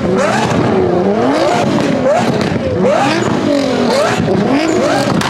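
Performance car engine revved hard over and over, the pitch shooting up and dropping back about once a second, with overlapping rev blips.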